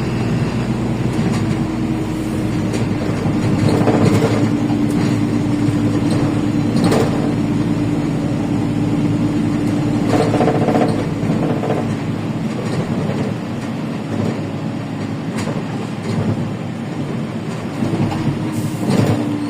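Ride noise inside a LiAZ 5292.65 city bus on the move: the Yuchai diesel and FastGear gearbox hum with a steady whine that slowly drops in pitch, over road rumble. Sharp knocks and rattles from the body come every few seconds.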